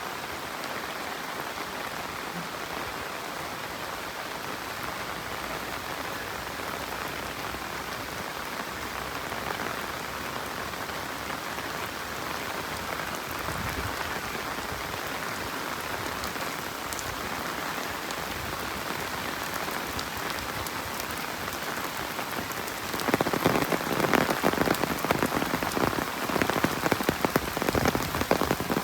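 Steady rain falling on the road and foliage. About three-quarters of the way through it turns louder, with many sharp drop hits close by.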